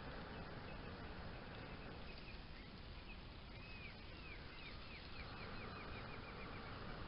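A bird calling over steady outdoor background noise: a quick run of about a dozen short notes, starting about three and a half seconds in and speeding up before it stops about two seconds later.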